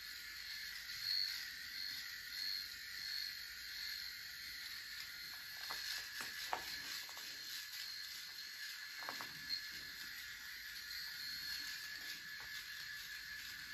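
Electric shaver running with a steady high buzz while someone shaves with it, its level swelling and dipping as it moves over the face. A few brief scratchy sounds come near the middle.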